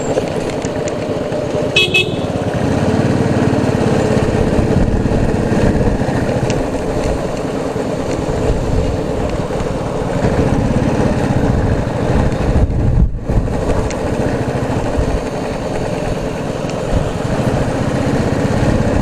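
Motorcycle running steadily on the road, with engine and road noise throughout. A short vehicle horn toot about two seconds in.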